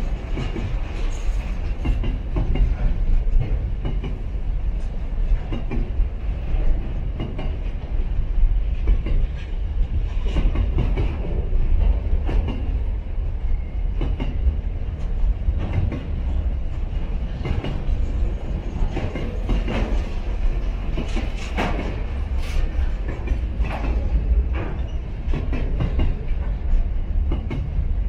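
Container freight wagons rolling past: a steady low rumble of wheels on rail, broken by frequent irregular clicks and clanks as the wheels cross rail joints.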